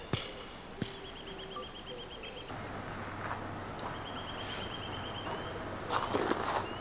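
Outdoor morning ambience with a small bird singing a rapid trill of high chirps, twice. A few footsteps on a path come in the first second and again near the end.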